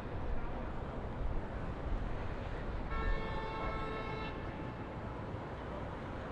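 Steady city traffic rumble, with a single horn sounding at one steady pitch for about a second near the middle.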